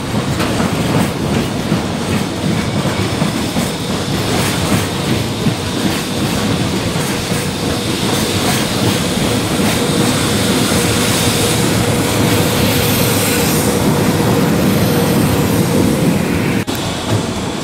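Container wagons of a freight train rolling past, their wheels clattering rhythmically over the rail joints and points, with a faint steady wheel whine through the middle. The sound cuts off abruptly near the end and gives way to a quieter sound.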